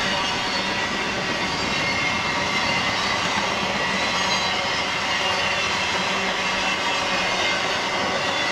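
Freight train cars rolling steadily past, a continuous rumble of wheels on rail with faint, thin high tones of wheel squeal over it.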